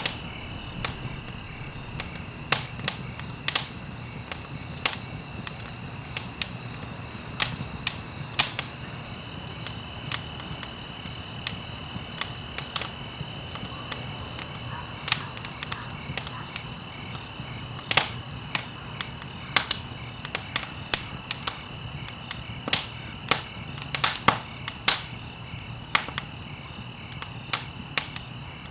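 Wood fire crackling in a fireplace: irregular sharp pops and snaps, sometimes several in quick succession, over a low steady rush of burning. A thin steady high-pitched tone runs underneath.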